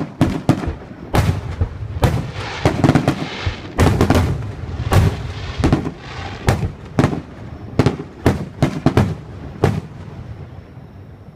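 Fireworks going off in a rapid, irregular string of sharp bangs with crackling between them. The bangs stop about ten seconds in, leaving a fading rumble.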